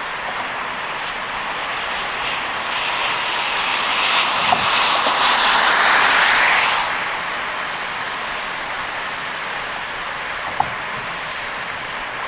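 Heavy rain and wet-road tyre noise from a car driving on an expressway in a downpour: a steady rushing hiss that swells louder for a few seconds in the middle, then settles back, with a few faint clicks.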